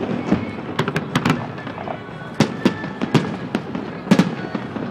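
Fireworks going off, a string of sharp bangs and crackling reports at irregular intervals, the loudest a little after four seconds in.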